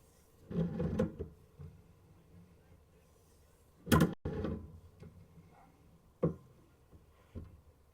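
A few dull knocks and clunks, the loudest a sharp knock about four seconds in, with smaller ones after it.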